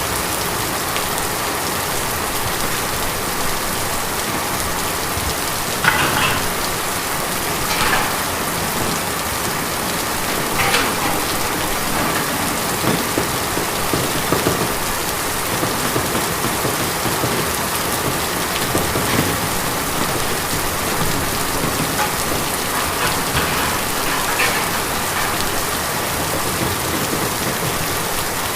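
Steady rain pattering on tin, with a few louder single drops standing out.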